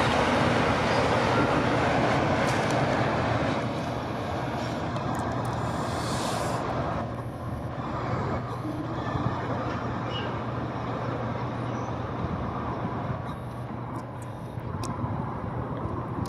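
Freight train rolling away along the track, its noise fading in two steps, about three and a half seconds in and again around seven seconds, over a low steady hum.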